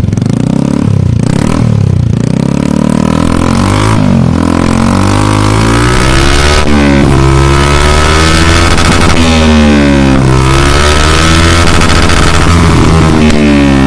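Honda Scoopy Fi scooter's single-cylinder engine revved up and down repeatedly through a 3Tech Ronin Katana aftermarket exhaust, loud, its silencer freshly repacked with new glasswool.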